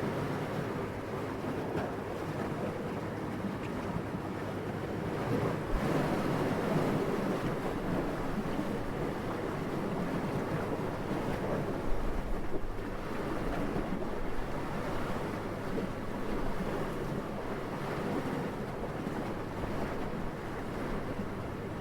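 Gentle wind blowing steadily, rising and falling in soft gusts, with a swell about six seconds in.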